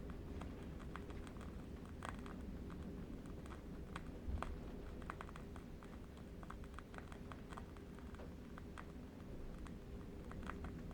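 Faint, irregular crackling of a burning candle wick, several small clicks a second, over a low steady wind rumble.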